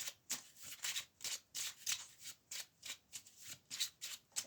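A deck of cards shuffled by hand: a run of soft, quick rustling flicks, about three a second.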